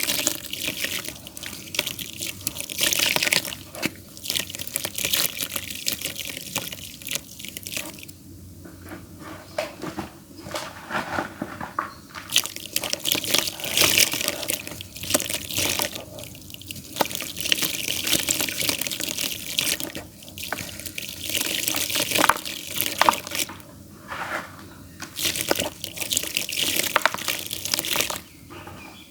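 Damp clay mud being crumbled and squeezed by hand, crackling and crunching in irregular bursts with short pauses between handfuls.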